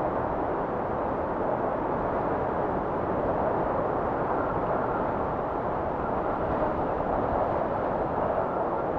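Arctic blizzard wind blowing steadily, a dense rushing noise with a faint whistle coming through about four seconds in and again near the end.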